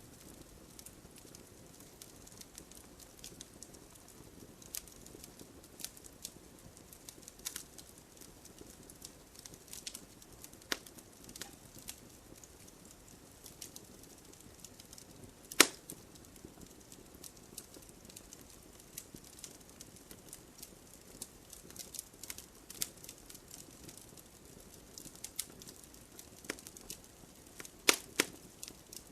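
Wood fire in a fireplace crackling, with scattered sharp pops over a faint, low hiss of burning. The loudest pop comes about halfway through, and a quick cluster of pops comes near the end.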